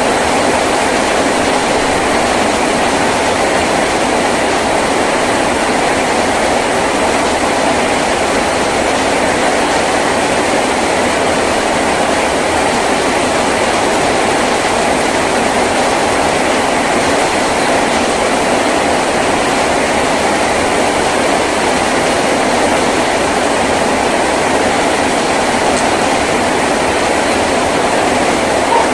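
Heavy rain drumming steadily on a tin roof, an even, unbroken patter.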